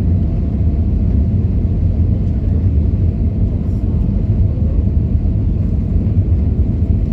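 Airbus A320 cabin noise in flight: a steady low rumble of the engines and airflow heard from inside the cabin.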